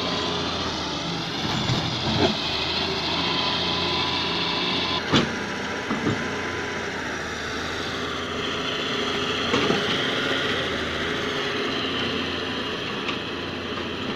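Hitachi EX200 excavator's diesel engine running steadily. A few sharp knocks or clanks sound over it, about 2, 5, 6 and 10 seconds in.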